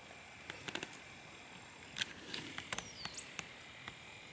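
Faint outdoor garden ambience with a bird calling once about three seconds in: a short high whistle that falls, then a higher held note. Soft scattered clicks and ticks run under it.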